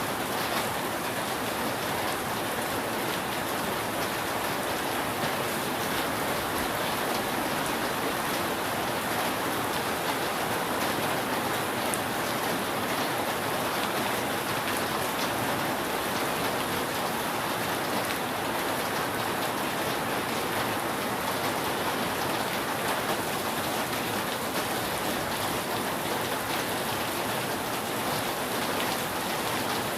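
Steady, dense rain falling on a roof, an even hiss of many drops with no thunder.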